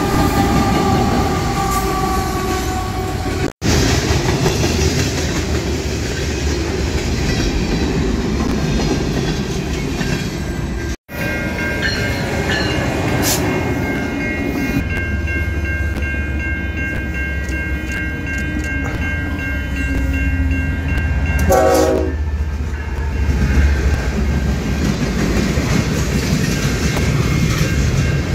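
Trains passing at close range, with a steady low rumble and wheel clatter from freight cars and a commuter train. In the middle a train horn sounds steadily for about ten seconds, then drops away.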